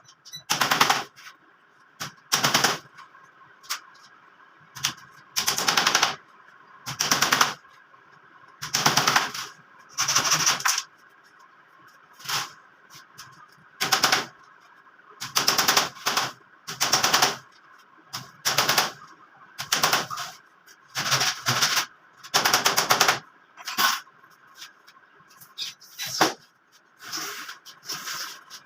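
A power tool running in about twenty short bursts of rapid hammering, each half a second to a second long, with pauses of a second or two between them.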